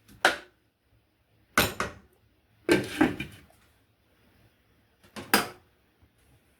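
Four short clatters and scrapes of cookware at the skillet, as the lo mein in the nonstick pan is handled and stirred.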